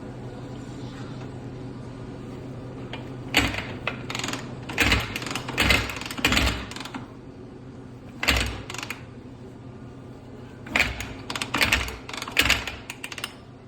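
Honda CRF250R single-cylinder four-stroke engine clacking and clicking in several short bursts of knocks as it is turned over without firing. The owner suspects the piston is hitting a valve.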